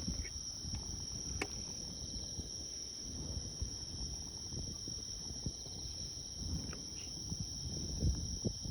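Insects trilling steadily in a high, unbroken chorus, over a low rumble with scattered soft knocks.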